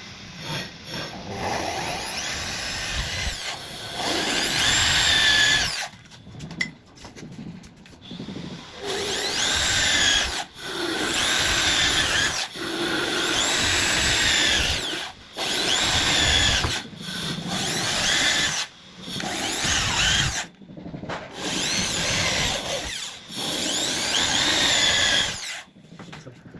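Handheld electric drill run in about nine short bursts of one to two seconds each, the motor speeding up and slowing down with each pull of the trigger, as in drilling or driving screws into wood.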